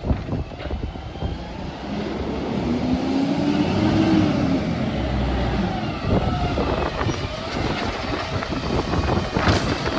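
Garbage truck engine running, rising in revs for a couple of seconds and then dropping back.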